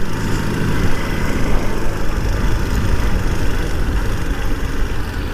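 Motorcycle engine running steadily under way, with a continuous low rumble of wind and road noise.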